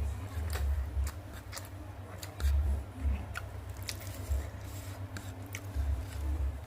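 Close-miked chewing and crunching of fried food, with many small sharp crunches scattered throughout and a few bursts of low rumble.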